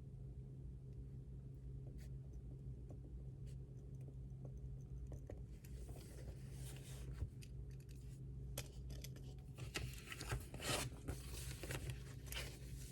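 Pen writing on paper: scattered light ticks, then from about halfway irregular runs of scratchy strokes, busiest near the end, over a steady low hum.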